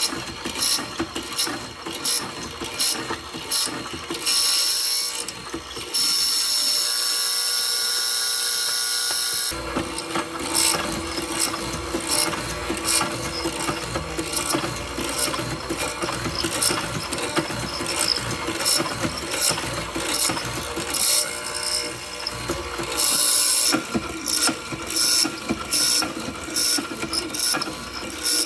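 Workshop tool noise: dense irregular clicking and scraping, broken by a steady hiss for a few seconds about a quarter of the way in, after which a steady low hum runs under the clicking.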